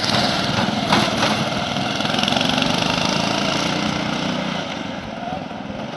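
A Muravey motor scooter's walk-behind-tractor engine running steadily, with a brief knock about a second in, getting quieter near the end.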